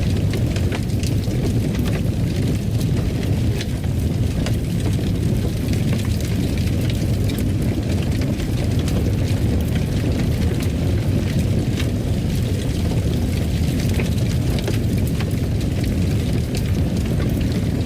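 Wood fire burning in a fireplace: a steady low roar with many irregular crackles and pops.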